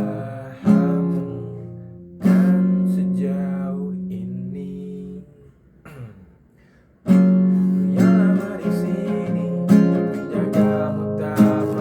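Acoustic guitar, capoed at the first fret, strumming chords. A chord is struck and left ringing for about three seconds, then cut off. After a short pause, steady rhythmic strumming starts again about seven seconds in.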